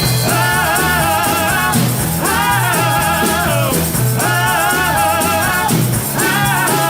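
Live band playing a rock/country song with guitar, bass and drums, while the singer holds a long "oh" again and again, one sustained note about every two seconds.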